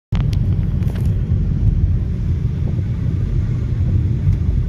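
Low, steady rumble of a car driving, heard from inside the cabin, with a couple of faint clicks in the first second.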